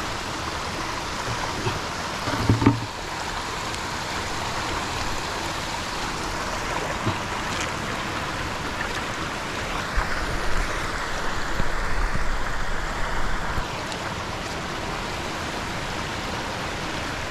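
Steady rush of running water, rain-swollen after a night of rain. There is a thump about two and a half seconds in, and a stretch of louder low rumbling and bumps from about ten to thirteen seconds in.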